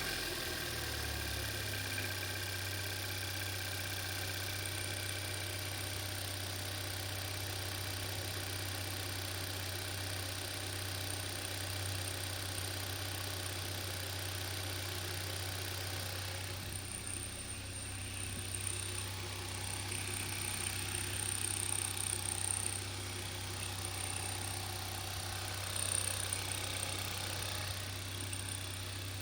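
Rebuilt 1.6-litre turbo G4FJ engine of a 2012 Hyundai Veloster idling steadily just after starting, its note shifting slightly about halfway through. The owner hears no knocking from the freshly rebuilt engine.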